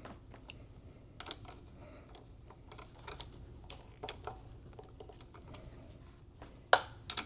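Scattered light clicks and taps of small computer parts being handled, with one sharper, louder click near the end.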